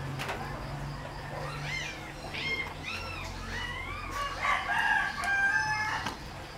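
Bird calls: a run of short calls that rise and fall in pitch, then a longer, louder held call from about four to six seconds in.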